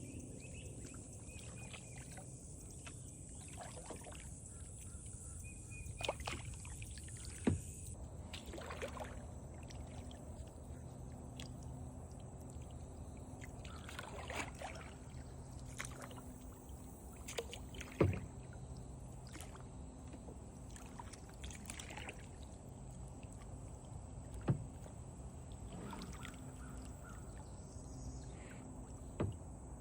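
Kayak paddle dipping and swishing in creek water now and then as the boat drifts with the current, with a few sharp knocks. A steady high-pitched hum runs underneath.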